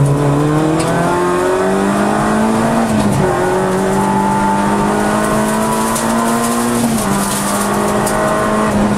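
Peugeot 106 Rallye's four-cylinder petrol engine heard from inside the cabin, driven hard. The revs climb, dip sharply about three seconds in and again about seven seconds in, then climb again.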